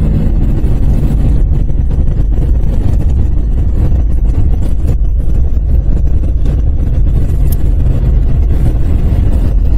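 A car moving at road speed, heard inside the cabin: a loud, steady low rumble of engine and tyres on a snow-covered interstate.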